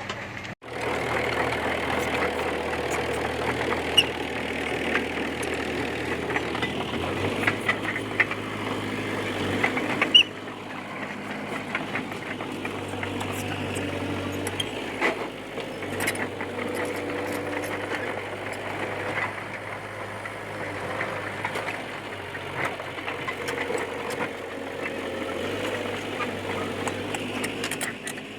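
A Komatsu D20P bulldozer's diesel engine running steadily, with frequent sharp clicks and clanks from the machine working. The sound briefly cuts out about half a second in, and the engine note changes and drops in level at about ten seconds.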